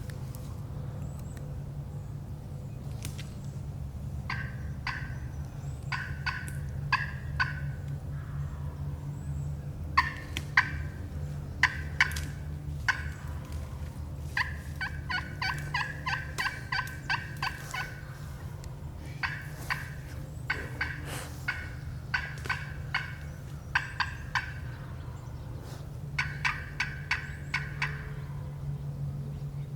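Turkey calling: bouts of short, sharp notes in quick series, one long fast run of about a dozen notes in the middle, over a steady low hum.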